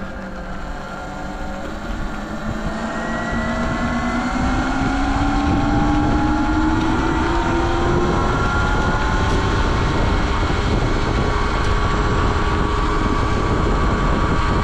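Sur-Ron X electric dirt bike under way. Its motor whine rises slowly in pitch as the bike gathers speed, then holds steady, over wind and road noise.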